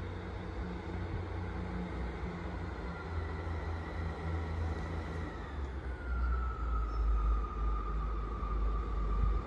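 Train running into the station: a thin whine falls slowly in pitch over a low rumble, and the rumble grows louder about six seconds in.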